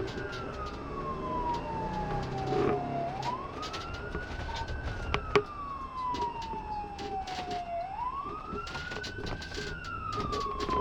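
Police car siren in wail mode: a tone that climbs quickly, then slides slowly down, repeating about every four and a half seconds.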